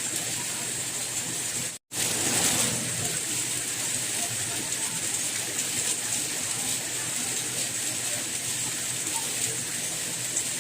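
Steady rain, an even hiss of falling water. About two seconds in it cuts out for an instant and comes straight back, slightly louder for a moment.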